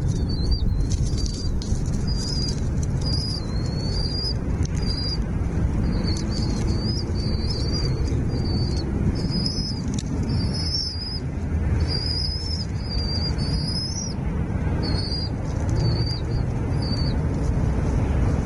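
Small birds chirping over and over in short, high, wavering calls that stop about a second before the end, over a steady low rumble.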